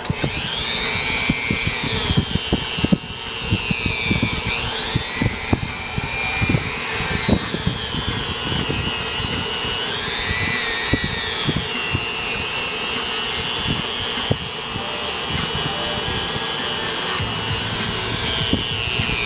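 Dremel rotary tool with a wire wheel scrubbing carbon deposits off the cylinder head's combustion chambers and valves. Its whine keeps dipping and rising in pitch as it is pressed into the carbon and eased off, over a continuous scratchy hiss.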